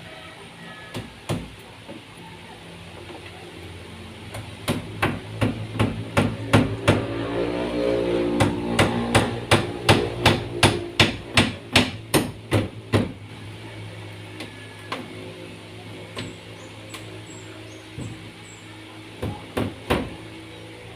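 Hammer blows, likely driving nails into wood: a steady run of about two strikes a second through the middle, with a few single blows near the start and near the end, over a low steady hum.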